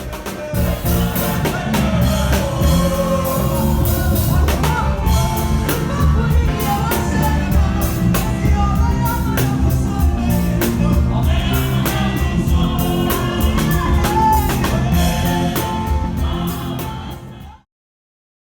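Gospel praise and worship music: voices singing together over drums and bass. It fades out near the end and stops.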